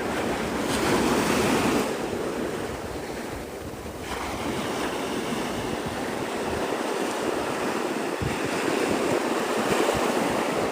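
Surf washing onto the beach in a steady rush that swells louder near the start and again near the end, with wind buffeting the microphone.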